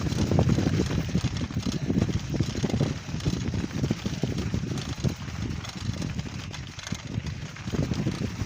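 Wind buffeting the microphone during a ride, a steady low rumble with rapid crackling, with the wheels crunching over rough ground beneath it.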